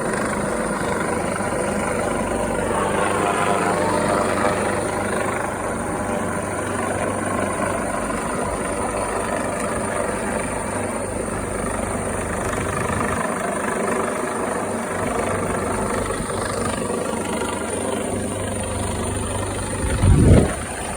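Helicopter running steadily, its rotor and engine making a continuous drone with a thin high steady whine over it. Near the end comes one brief, loud, low rumble.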